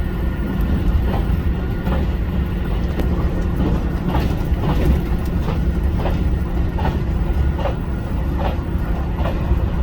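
HOT7000 series diesel railcar running along the track: a steady low rumble with short, repeated clicks, the wheels running over the rail.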